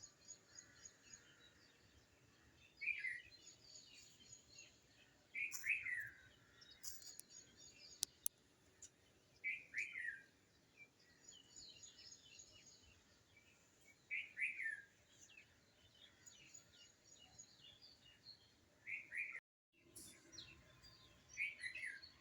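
Birds calling outdoors: a short, falling call repeats every four seconds or so over faint, higher twittering. The sound cuts out completely for a moment near the end.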